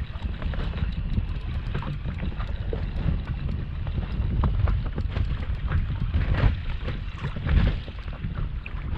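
Wind buffeting the microphone in a heavy, uneven rumble, with water slapping and small knocks against a small boat's hull.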